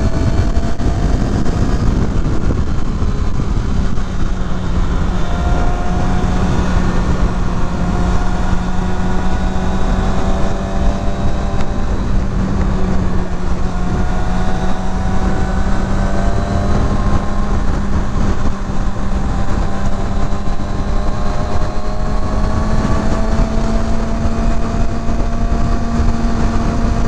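Kawasaki Ninja ZX-6R's inline-four engine running at a steady cruise under heavy wind rush; the engine note rises slightly near the end.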